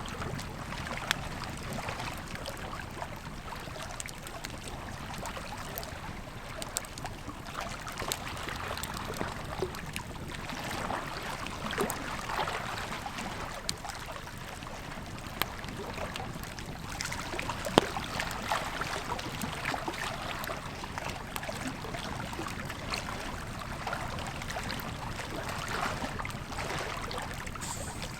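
Campfire crackling with scattered sharp pops, over the steady rush of a flowing river.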